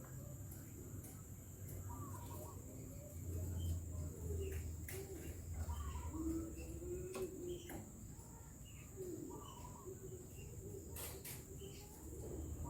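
Birds calling in the background, one short call repeating every two to three seconds, with lower cooing calls and a few faint clicks.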